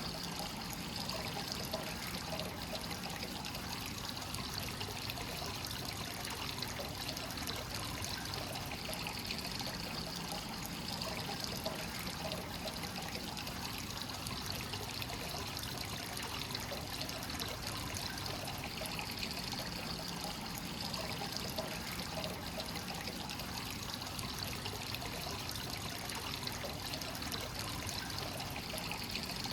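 Hot-spring source water pouring steadily into an onsen bath, a continuous trickling, splashing flow with no pauses.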